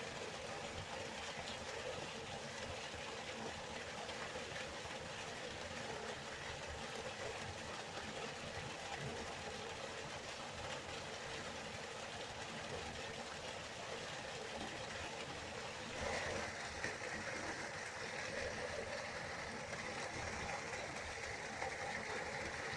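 River water rushing steadily, an even wash of noise. About 16 seconds in it becomes brighter and more hissing and stays that way.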